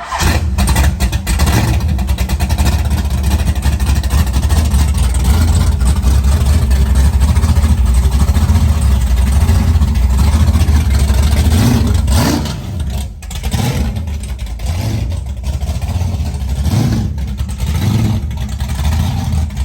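1965 Plymouth Satellite drag car's 528 Hemi V8 catching and running loud and steady. From about twelve seconds in, it is blipped on the throttle in a string of short revs, about one a second.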